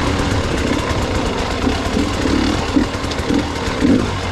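Gas Gas EX 300 two-stroke enduro motorcycle engine running at low revs on the trail, with brief throttle bursts.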